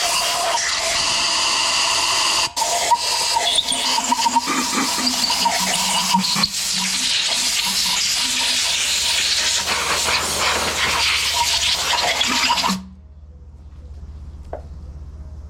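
A jet of water spraying and splashing on the junkyard Ford 6.2L V8 engine during its clean-up, a steady loud hiss that cuts off suddenly near the end.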